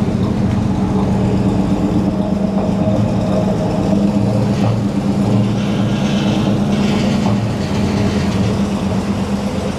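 Ford F-250 Ranger crew cab pickup's engine running steadily at idle, a loud, even, mean-sounding rumble.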